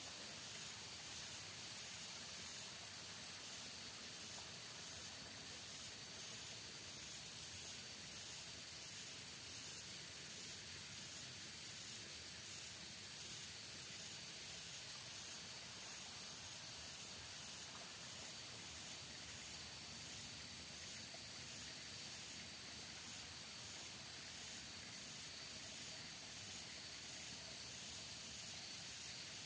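Rainforest ambience: a steady hiss with a high-pitched insect chorus that pulses evenly, about one and a half times a second.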